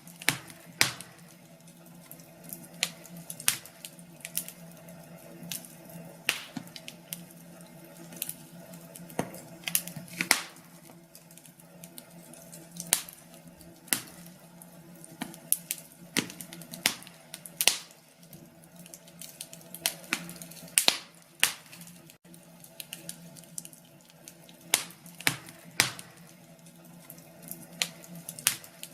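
Wood fire crackling in a fireplace: irregular sharp pops and snaps, several a second, over a faint steady hum.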